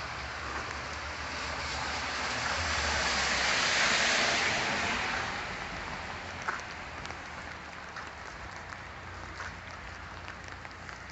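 A vehicle passing on a wet road: the tyre hiss swells to a peak about four seconds in, then fades, over steady rain with scattered light taps.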